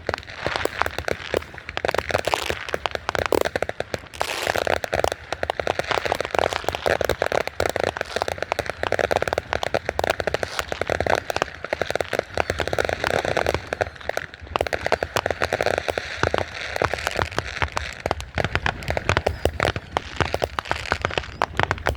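Fireworks going off in a dense, continuous barrage of rapid sharp cracks and crackling.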